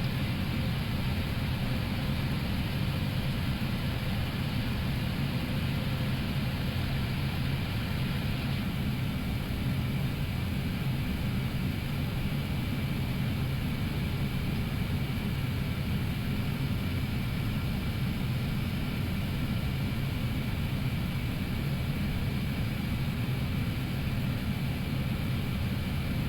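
Steady cockpit noise of an Airbus A321neo on final approach with landing gear down and full flaps: a constant low rush of airflow and engine hum with a few faint steady tones above it.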